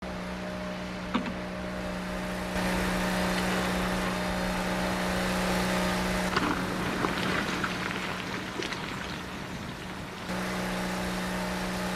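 Factory machinery ambience: a steady mechanical hum over a wash of industrial noise, with a few faint knocks. The hum drops out for a few seconds midway and then returns.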